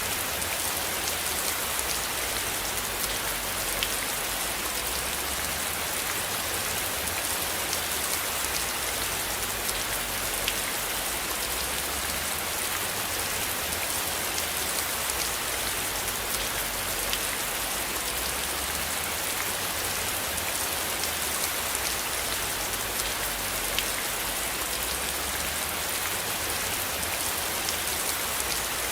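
Steady rain falling: a dense, even hiss with scattered sharp drop ticks and a low rumble underneath.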